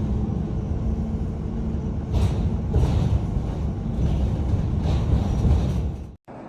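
Low, steady rumble of a heavy vehicle running, with several short whooshes over it. It cuts off abruptly near the end and gives way to a quieter hiss.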